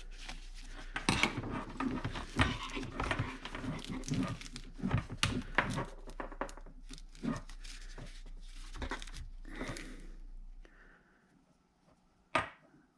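Handling noise from a fuel pump assembly and its wiring being turned over and inspected: irregular rustling, clicks and light knocks of plastic and wire, with a faint steady low hum that stops near the end, followed by one sharp click.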